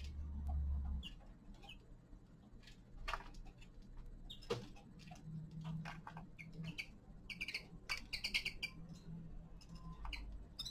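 Small caged finches feeding: many sharp clicks and taps of beaks pecking and cracking seeds, with short chirps, busiest about two-thirds of the way through.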